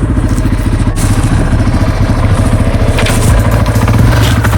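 Engine idling steadily, with an even, fast firing pulse and a few light knocks over it.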